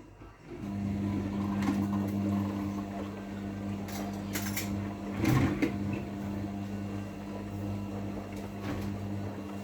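LERAN WMS 27106 WD2 washing machine running a wash cycle: a steady motor hum starts about half a second in, with a few knocks and clicks from the drum, the loudest about halfway through.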